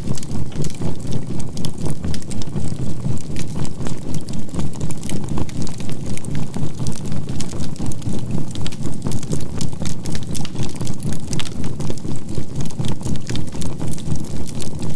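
Campfire crackling with scattered sharp snaps over a steady low synthesized hum that pulses evenly about three to four times a second, the beating of a binaural-beat track, with a faint 528 Hz tone held underneath.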